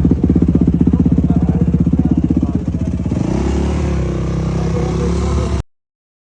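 Motocross bike engines running, a fast, even pulsing engine note that shifts to a steadier, higher note about three seconds in. The sound cuts off abruptly near the end.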